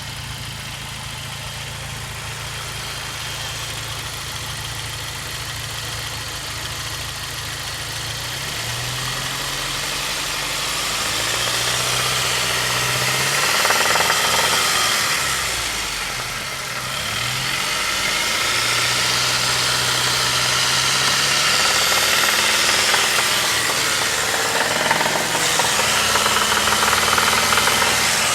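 Saab 9-5 engine running in neutral and revved up and down several times, with a knock that the owner puts down to spun crankshaft bearing shells.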